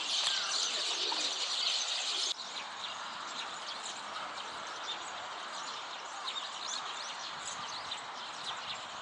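Many small birds chirping and twittering together in a dense stream of short high calls. The sound drops suddenly to a quieter, thinner chorus a little over two seconds in.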